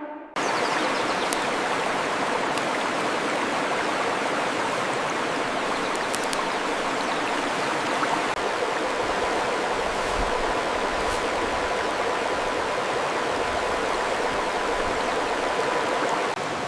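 Steady rushing of running water from a stream, starting abruptly just after the opening and stopping near the end.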